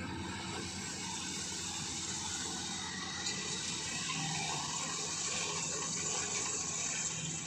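Rice-harvesting machine running steadily: a continuous rushing hiss over a low engine drone.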